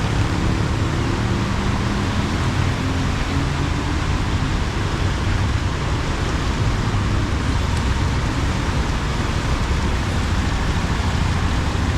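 Heavy rain falling steadily, with motor traffic running along the road and a constant low rumble beneath.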